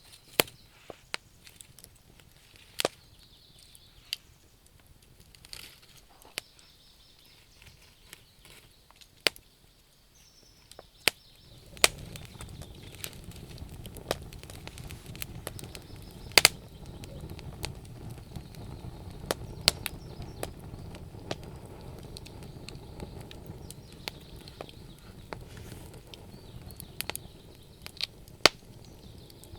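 Wood fire crackling: scattered sharp snaps and pops, a few of them loud, with a low steady rush of the fire coming in about twelve seconds in.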